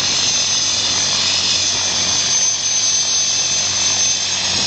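Helicopter running close by: a steady, loud turbine whine over a constant engine rumble.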